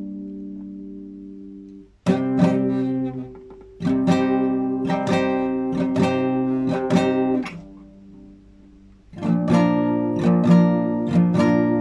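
Classical guitar played solo in free improvisation. A chord rings and fades away, then comes a passage of plucked notes from about 2 s to 7.5 s, a short lull, and busy strummed chords from about 9 s on.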